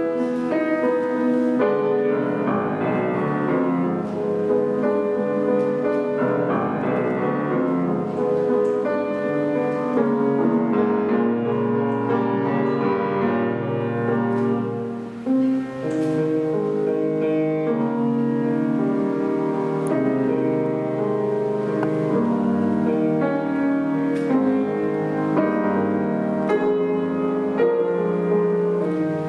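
Solo piano playing classical music continuously, with a brief drop in loudness about halfway through.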